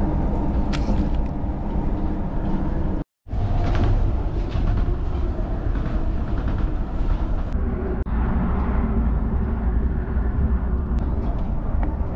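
Interior running noise of a PKP Intercity PESA Dart electric multiple unit at speed: a steady deep rumble of wheels and running gear on the track, heard inside the passenger car. It cuts out briefly about three seconds in.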